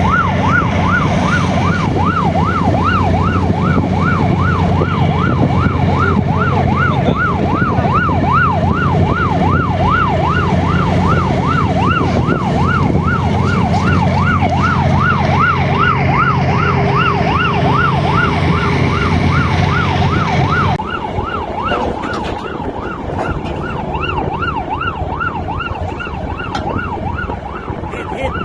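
A fast wailing siren sweeping up and down in pitch about two to three times a second, over a steady low engine drone. About 21 s in, the sound cuts to a quieter, thinner recording in which the same siren carries on.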